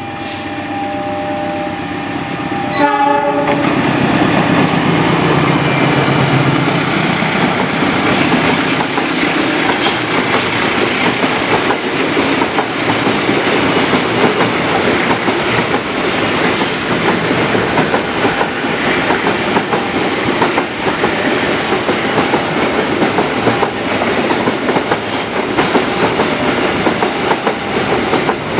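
Train horn sounding a steady chord that stops about three seconds in as the train reaches the microphone. Then comes the loud, continuous rumble and clatter of the passing train's wheels on the rails.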